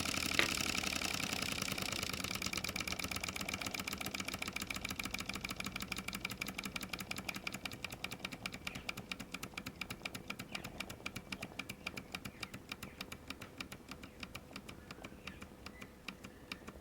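Mamod SP6 miniature stationary steam engine running, its double-acting cylinder giving a fast, even train of soft exhaust puffs that gradually slow down and grow fainter. A sharp click comes about half a second in.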